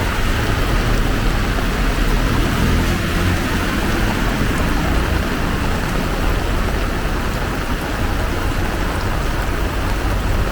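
Heavy rain pouring steadily, with a low rumble of road traffic that swells a little a few seconds in.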